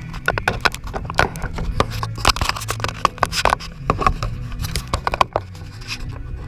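2001 International DT466E inline-six turbodiesel running soon after a cold start: a steady low engine note with irregular sharp clattering clicks over it.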